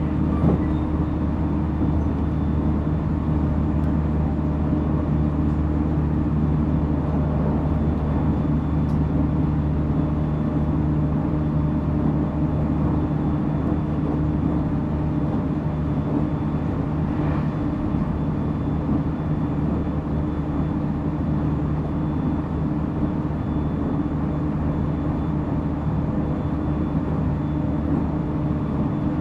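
Interior running noise of a JR Central 313 series 0 electric train, heard from inside motor car MoHa 313-7: a steady rumble of wheels on rail with a steady hum, at an even speed. A single brief knock comes about half a second in.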